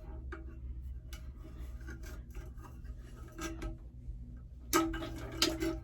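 Rubbing, scraping and small clicks as a replacement toilet flush lever arm is slid through the handle hole of the toilet tank, with a louder knock about five seconds in.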